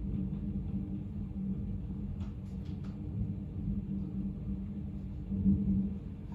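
Low, steady rumble with a hum, swelling briefly about five and a half seconds in, with a few faint clicks between two and three seconds in.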